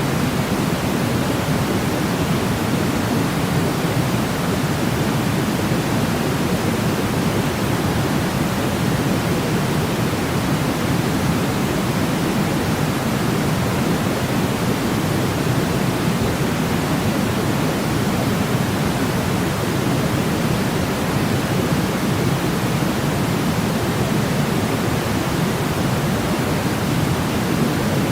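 Steady pink-type noise, a continuous even hiss weighted toward the low end, used as a sleep sound for babies.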